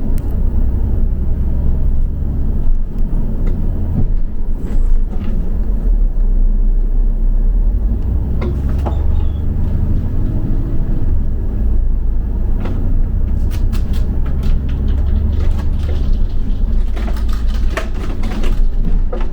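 Double-decker bus running, heard from inside: a steady low engine and road rumble, with a few short rattles or knocks from the bodywork now and then.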